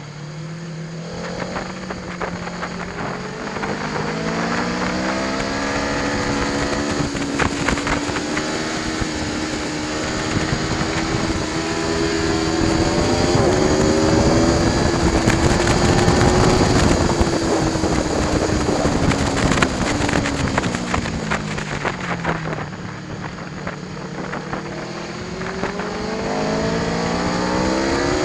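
Aprilia Tuono V4 1100 Factory's V4 engine under hard acceleration, its pitch climbing in steps through upshifts, held high, then falling in steps as it slows and downshifts about two-thirds of the way through, and rising again near the end.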